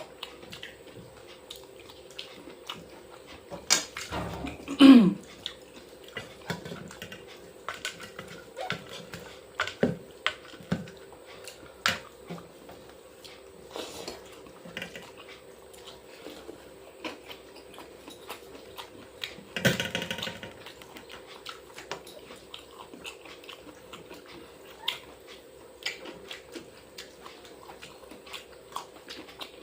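Close-up eating sounds: chewing and lip-smacking with many small wet clicks, from eating rice and fried snacks by hand. A louder short sound with a falling pitch comes about five seconds in, and another brief loud one near twenty seconds.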